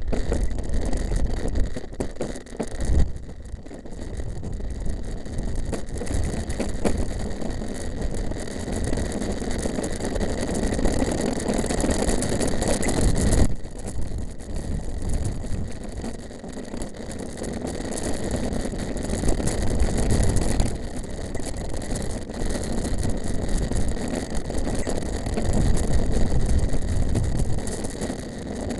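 Mountain bike ridden over a rough chalk and gravel track: a steady rumble of tyres on loose ground, with many small knocks and rattles from the bike and wind buffeting the microphone.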